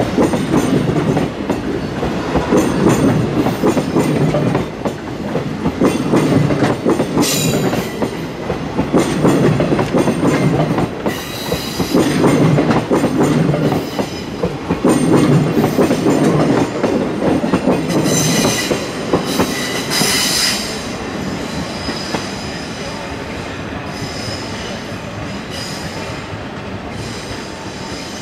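Blue 24-series sleeper coaches rolling past close by, their wheels clattering over the rail joints in a repeating rhythm, with brief high wheel squeals several times. After about twenty seconds the sound settles to a quieter, steady rumble.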